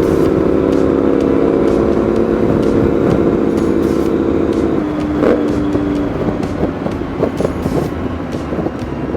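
Yamaha MT-07's parallel-twin engine running at a steady highway cruise, a pretty good little noise, heard over wind noise. About five seconds in its note drops sharply, and after that the engine fades beneath the wind.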